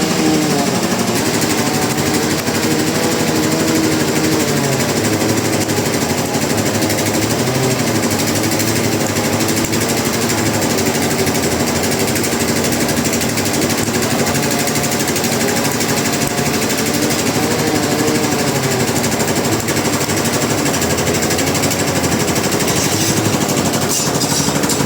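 Sawmill machinery running: a loud, fast mechanical rattle with a whining pitch that wavers up and down.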